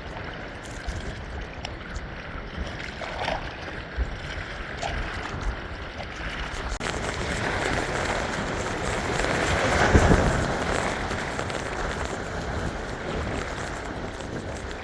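Blizzard wind blowing over a lake, with waves washing and splashing against the shore. The sound builds to a louder surge with a deep rumble about two-thirds of the way through, then eases.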